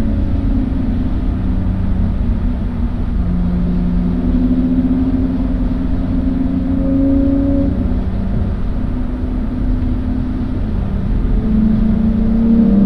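Car engine heard from on board, its note holding fairly steady with a few steps in pitch and climbing again near the end, over a constant low rumble of road and wind noise.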